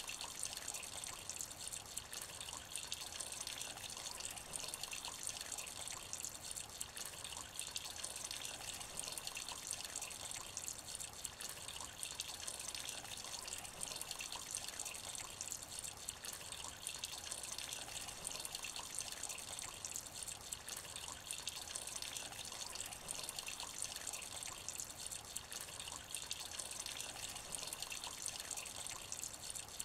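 Light rain falling into a shallow puddle: a steady, even patter of many small drops splashing on water, without lulls or changes.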